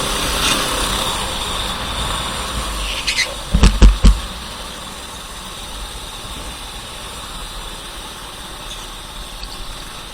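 Racing kart engine running at low speed. About three and a half to four seconds in come a few loud, sharp knocks, and after them only a quieter, steady noise remains.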